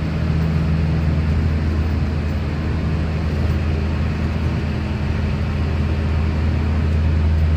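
A vehicle's engine running steadily: a constant low hum that does not change.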